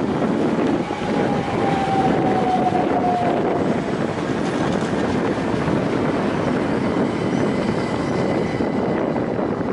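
Electric multiple-unit passenger train running past close beneath, a steady loud rushing of wheels and running gear, with a short falling whine about a second in.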